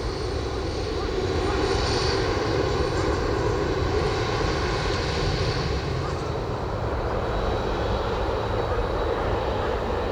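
Jet airliner engines running with a steady, even rush.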